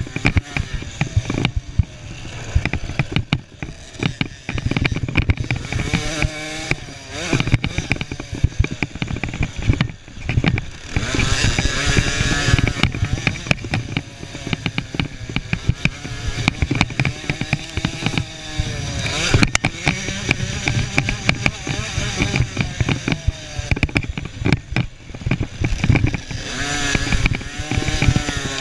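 Small two-stroke KTM 50cc motocross bike engines buzzing and revving up and down in repeated rising and falling waves as the bikes ride the track.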